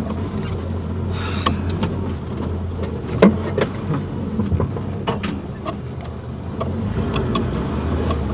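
Suzuki Jimny engine running at a steady low speed, with scattered knocks and rattles over it and one sharp knock about three seconds in.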